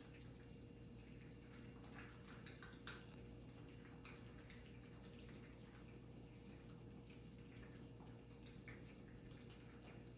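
Cats eating: faint, scattered small clicks of chewing and lapping, a few louder ones about two to three seconds in, over a steady low hum.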